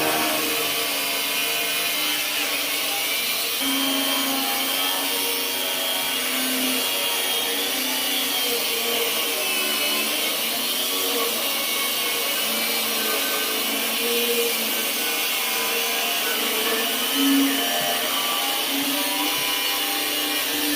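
Angle grinder running steadily, its whine wavering slightly in pitch, with a brief louder swell about three-quarters of the way through.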